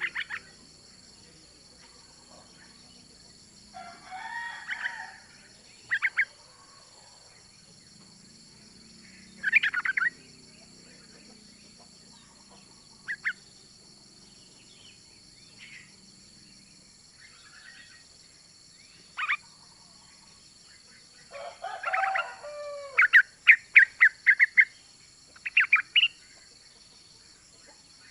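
Female yellow-vented bulbul (trucukan) calling to a male: short bursts of quick chattering notes every few seconds, coming thickest in a run of bursts near the end.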